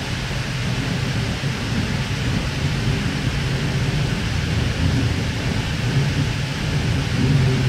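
Steady interior rumble of a K-set double-deck electric suburban train running at speed, heard from inside the passenger car: wheels on rail and running gear with a low hum.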